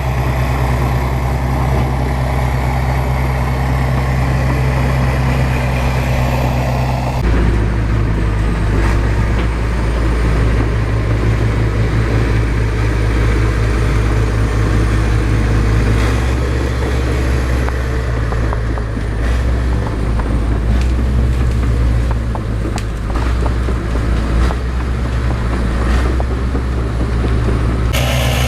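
Bulldozer's diesel engine running, a loud, steady low hum, with the sound changing abruptly about seven seconds in and again near the end.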